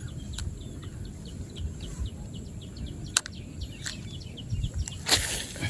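Small birds chirping over and over in quick, short high notes, with a steady low rumble underneath. A sharp click comes about three seconds in, and a brief loud, noisy burst comes near the end.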